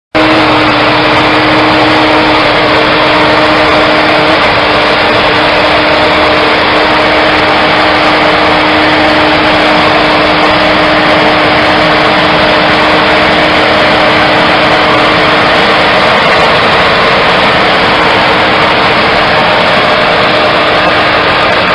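An engine running loud and steady at constant speed, with a steady droning pitch.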